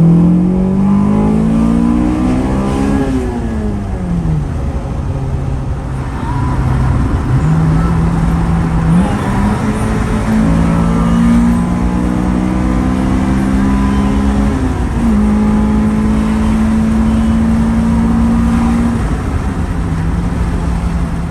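Acura Integra's B18C Type R four-cylinder engine running under way: the revs climb over the first few seconds, then fall away. After that it runs at mostly steady revs, with a few steps up and down in pitch.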